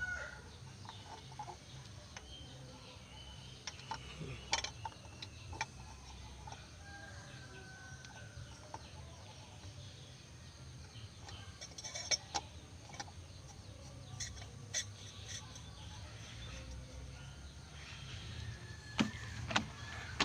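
Quiet outdoor background with faint bird calls and a low steady hum, broken by scattered light clicks and taps, a cluster of them about a dozen seconds in and again near the end.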